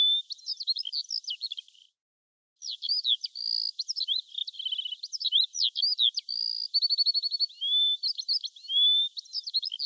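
Songbird singing: a quick run of varied chirps, whistled notes, rising slurs and short trills, broken by a brief silence about two seconds in.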